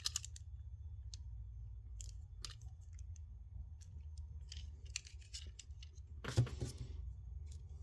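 Plastic joints of a Transformers action figure clicking as it is twisted and folded by hand during transformation: scattered sharp clicks, with a louder burst of clicking and rustling about six seconds in. A steady low hum runs underneath.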